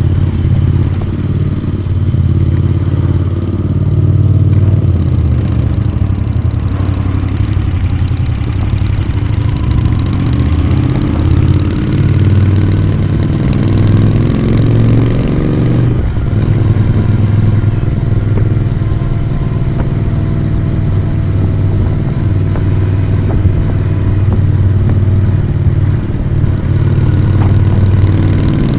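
Moto Guzzi V35 café racer's air-cooled transverse V-twin running on the road through its exhaust, heard from the rider's seat. The engine note rises steadily for several seconds as it pulls, drops briefly about halfway through, then carries on steadily.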